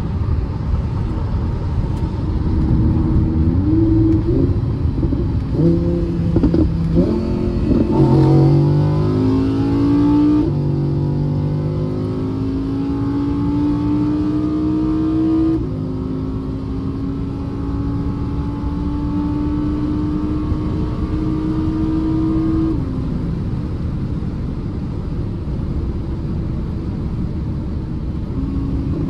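2018 Audi R8 V10 Spyder's naturally aspirated V10 under hard autobahn acceleration, heard from inside the cabin. After some uneven revving, the engine note climbs in long rising sweeps. It drops sharply at an upshift about a third of the way in and again about halfway, then falls back as the throttle is released about three quarters of the way through.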